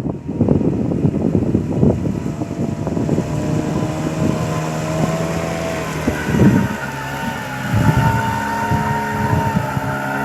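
Hangkai 6 outboard motor running on a flat-bottomed boat during its break-in, with wind on the microphone. The engine note comes through steadily after a few seconds, dipping and shifting in pitch about halfway through as the throttle changes.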